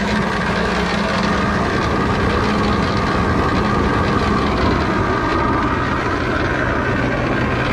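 Concrete mixer running, with a steady motor hum and the rushing of sand tumbling in the turning drum, as the sand is mixed and heated for wax sand.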